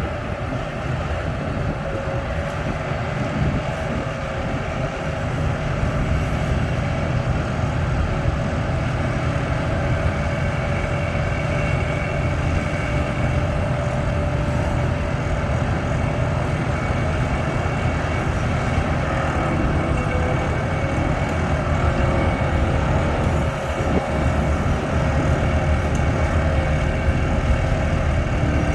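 Sany long-boom excavator running steadily, a deep engine rumble with a steady hydraulic whine over it, as it works a vibratory hammer on sheet piles.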